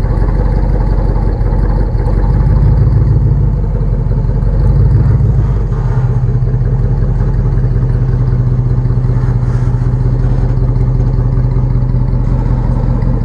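Jeep Wrangler JK engine running under load as the Jeep crawls over boulders, a steady low drone that revs up briefly twice, about two and five seconds in.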